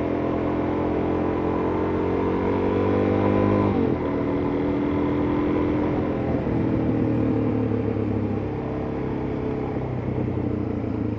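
Suzuki DR-Z400S single-cylinder four-stroke motorcycle engine accelerating. The revs climb for a few seconds, drop sharply at a gear change about four seconds in, then run steadier and ease off later.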